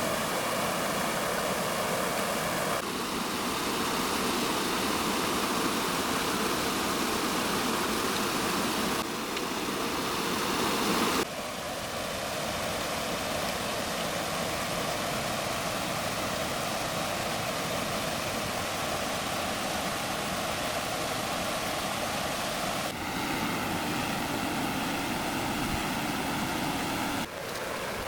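Fast-flowing stream water rushing steadily, its tone and loudness shifting abruptly several times.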